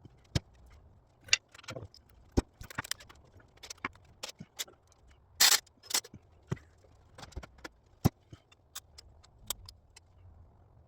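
Irregular metallic clinks and clanks of hand tools and engine parts being handled while an engine is taken apart, with a short, louder rattling burst about five and a half seconds in.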